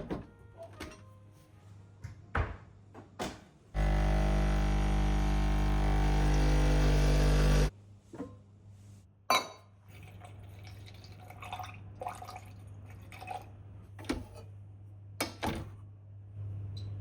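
Light knocks and clicks, then a loud electric hum for about four seconds that cuts off suddenly. Scattered clicks and a faint trickle follow.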